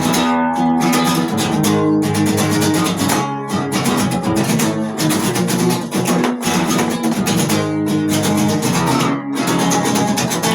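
Acoustic guitar strummed in steady chords, an instrumental passage with no singing.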